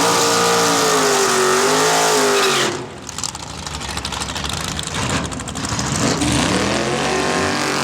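Drag-racing 383 small-block Chevy V8 running loud, its pitch wavering up and down, then cutting off abruptly about two and a half seconds in. After a quieter gap the engine sound builds again with rising pitch toward the end.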